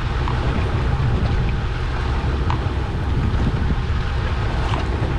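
Wind buffeting the microphone aboard a fishing boat at sea: a steady low rumble with a rushing hiss over it and a few faint ticks.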